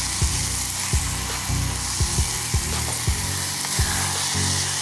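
Onion and tomato masala sizzling in oil in a saucepan as it is stirred with a wooden spatula. Background music with an even beat plays underneath.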